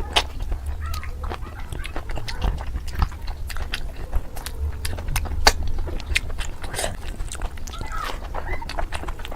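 Close-miked eating of basmati pulao and mutton curry: chewing with many short, wet mouth clicks and smacks, over a steady low rumble.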